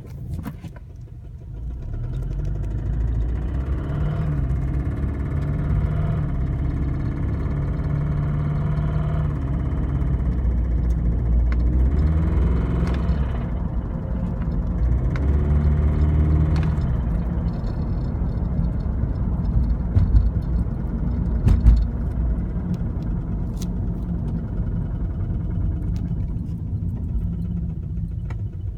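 Scion FR-S 2.0-litre flat-four engine running, its pitch rising and falling several times, with a knocking noise over it. Two heavier knocks come about two-thirds of the way through.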